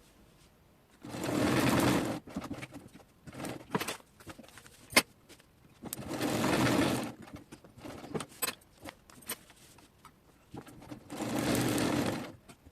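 SIGMA domestic sewing machine stitching in three short runs of about a second each, with clicks and fabric handling between runs as each side of the cube is sewn.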